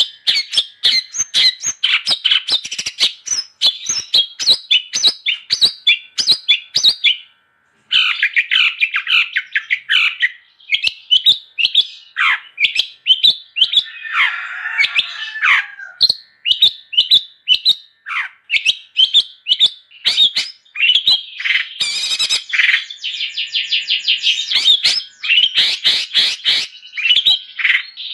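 Long-tailed shrike (cendet) singing vigorously: a fast, unbroken run of sharp chirps, with a brief break about seven seconds in and a scratchier stretch about halfway through.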